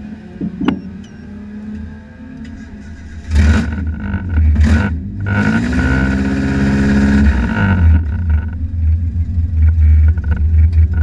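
Drag car engine heard from inside the cabin: a rumbling idle, then two short sharp revs about three seconds in, followed by a longer rev that climbs in pitch and holds for about two seconds. From about eight seconds in it settles into a loud, low rumbling idle.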